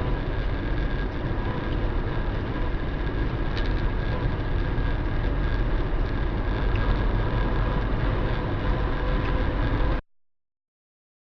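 Steady rumble of a car's engine and road noise as picked up by an in-car dashcam, with a faint click about three and a half seconds in. It cuts off abruptly near the end, leaving silence.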